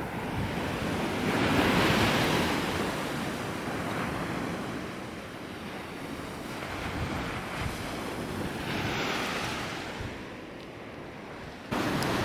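Ocean surf breaking and washing up the beach, swelling twice about seven seconds apart, with wind rumbling on the microphone.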